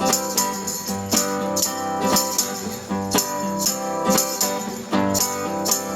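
Instrumental break of a live acoustic song: strummed acoustic guitar chords with jingling hand percussion on the beat, about twice a second.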